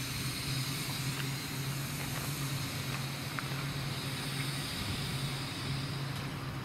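Passenger train passing over the level crossing: a steady rushing of wheels on rail with a low hum and a few faint clicks.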